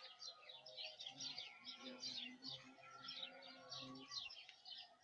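Faint birdsong of many short, falling chirps, with the low hum of a carpenter bee flying past in the middle.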